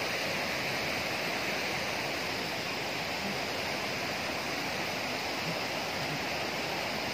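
Steady rushing of running water, a continuous even rush with no breaks.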